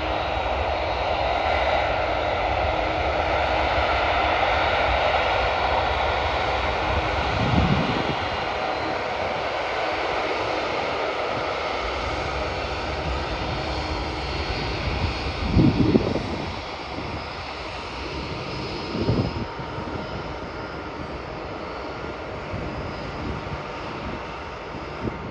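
Jet airliner (Emirates Airbus) engines and airflow during takeoff, a steady noise that slowly grows quieter, with a few low thumps.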